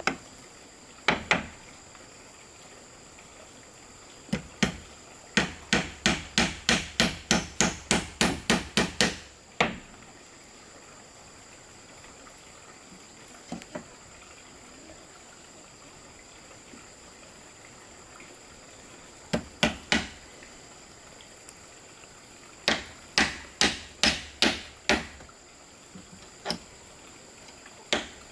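Runs of rapid hard blows of a hand tool on wood, about three strikes a second, stopping and starting with a long pause in the middle.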